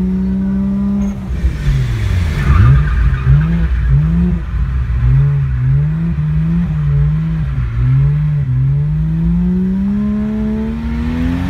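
Toyota 1JZ straight-six in a BMW E36 Touring, through a 3-inch straight pipe, heard from inside the car while drifting. The engine is held at high revs, falls off about a second in with a short tyre squeal, then rises and falls in a string of quick rev changes before climbing steadily in revs near the end.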